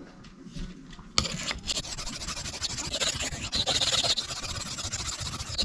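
Steel knife blade being stroked over a sharpening stone, a gritty scraping that starts about a second in and keeps going; the edge is being ground to an apex, with a burr just forming.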